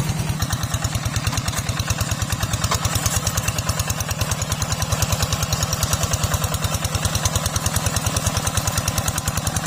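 Small tractor engine running steadily with a rapid, even chugging.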